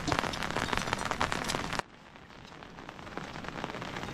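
Rain falling, a dense patter of many drops. Less than two seconds in it cuts off abruptly to quieter rain that slowly grows louder.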